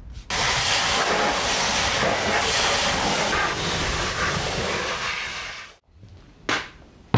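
Liquid spraying onto a galvanised steel bulkhead: a steady, loud hiss for about five seconds that cuts off suddenly, then a short burst of spray about a second later.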